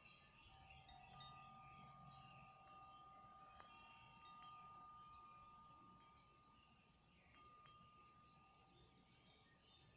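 Wind chimes ringing softly in a light breeze, a few long tones sustaining and slowly fading. Sharper strikes land about three and four seconds in.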